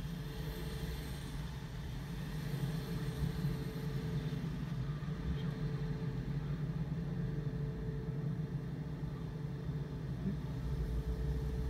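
Car engine idling steadily, heard from inside the car's cabin as a low, even hum.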